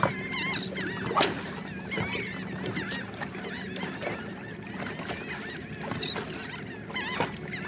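A flock of birds working over a school of fish, calling continuously with many short overlapping calls, over a steady low hum.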